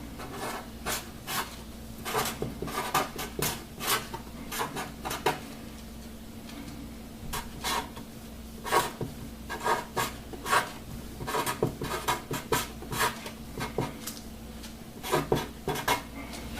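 Hand-writing strokes on a board: short scratchy strokes in irregular runs, with brief pauses between equation terms.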